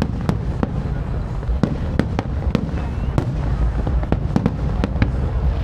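Fireworks going off: about a dozen sharp bangs at irregular intervals over a steady low rumble.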